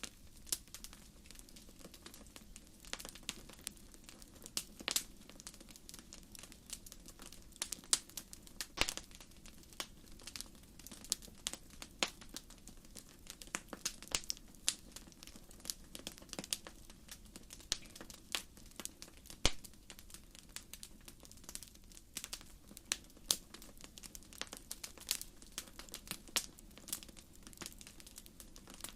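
Wood fire crackling: irregular sharp pops and snaps from burning firewood, several a second, over a steady soft rush of the flames.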